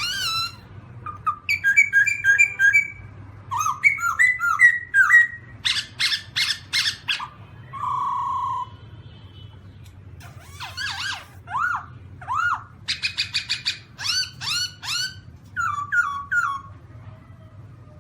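Black-throated laughingthrush singing: a varied run of phrases made of quick repeated notes and whistled slurs that swoop up and down, with short pauses between them and one held note partway through.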